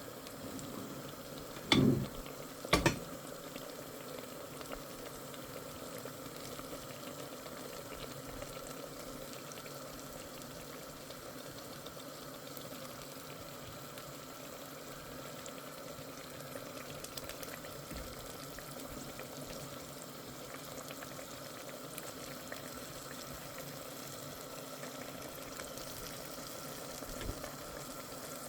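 A cooking pot boiling steadily on the stove, with two short loud clanks about two and three seconds in.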